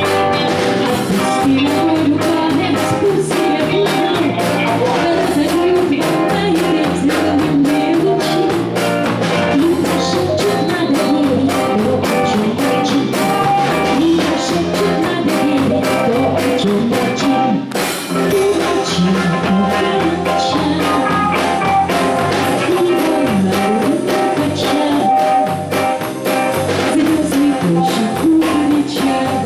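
Live pop song from a band: a woman singing over electric guitar and drum kit with a steady beat.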